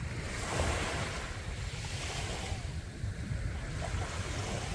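Sea waves breaking and washing up a sandy beach: a surge of surf just after the start that eases off, then another building near the end. Wind rumbles on the microphone throughout.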